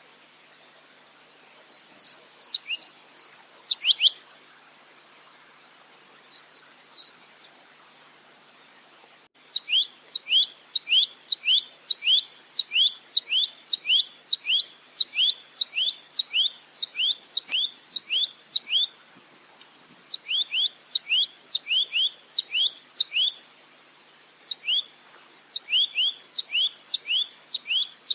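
Velvet-fronted nuthatch (rambatan) calling: a few scattered chirps and twitters at first, then after about nine seconds a long rapid series of sharp notes, each sweeping downward, about two to three a second, broken by a couple of short pauses.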